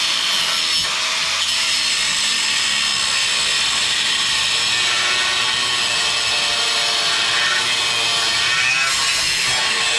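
A power tool cutting into the steel of an old truck frame, a steady harsh metal-working noise that runs without a break, as the riveted parts are removed.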